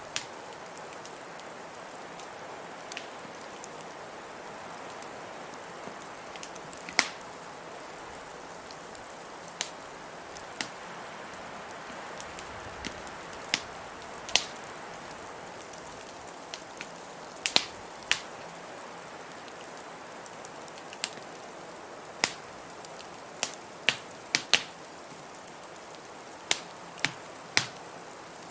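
Wood fire in a fireplace crackling, with sharp pops at irregular intervals, a few seconds apart or in quick clusters, over a steady rushing background of blizzard wind.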